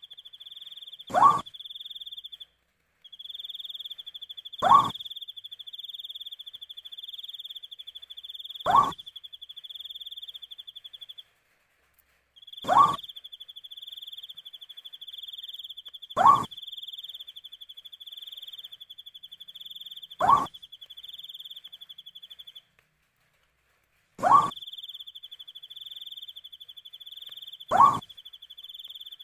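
An owl repeating a short call that rises sharply in pitch, eight times at regular intervals of about four seconds. Under it, a steady high, pulsing cricket trill breaks off briefly a few times.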